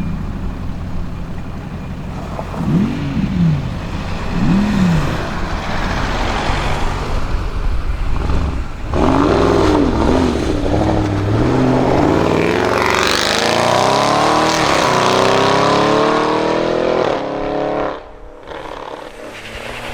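Audi RS6 Avant C7's twin-turbo V8 through a Milltek exhaust, revved twice in short blips a few seconds in. About nine seconds in it gets much louder, blips again, then accelerates hard with the engine note climbing steadily for several seconds before the sound drops away suddenly near the end.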